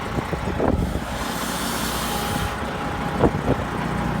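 Truck engine running steadily, with a burst of air hissing for about a second and a half, beginning a little over a second in.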